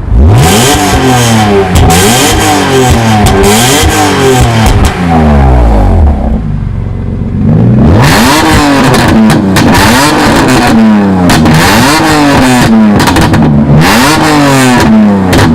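BMW E46 M3's straight-six revved repeatedly through a Rogue Engineering mid-pipe and valved exhaust, very loud. The pitch climbs and drops in quick succession about ten times, with a brief lull about halfway through.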